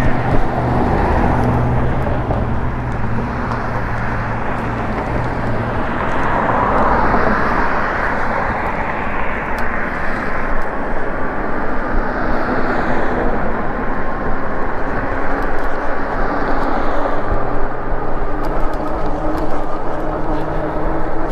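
Wind rushing over an action camera's microphone while riding an e-bike along a road, with traffic noise; a vehicle passes about seven seconds in.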